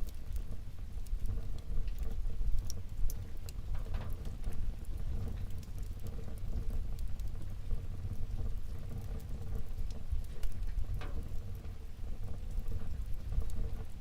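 Wood fire burning in a fireplace: a steady low rumble of flames under scattered small crackles, with a couple of louder pops about four seconds in and about eleven seconds in.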